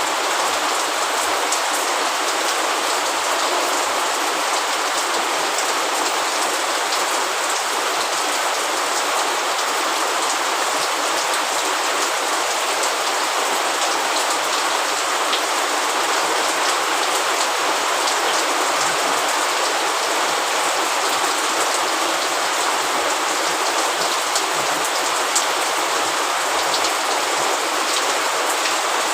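Steady, heavy rain: a dense even hiss with individual drops ticking through it.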